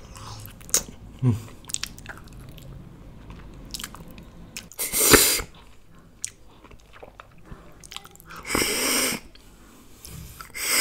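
A person chewing and biting pieces of meat close to the microphone, with small wet mouth clicks. There are louder, noisy bursts of eating sound about five and nine seconds in.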